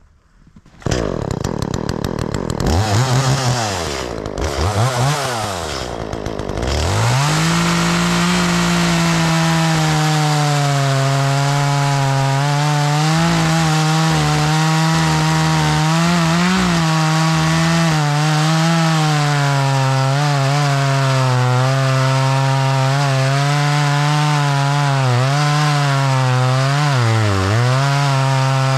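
Two-stroke chainsaw comes in about a second in and is revved up and down three times. It is then held at high revs, cutting through wood with small dips in pitch as the chain bites. The chain is freshly sharpened and cuts fast and straight without smoking.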